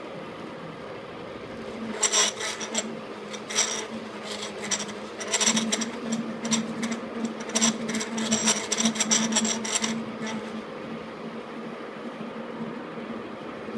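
KART E1N metal lathe running, with a cutting tool working the metal in irregular scraping bursts from about two seconds in until about ten seconds in, when the cutting stops and only the machine's hum remains.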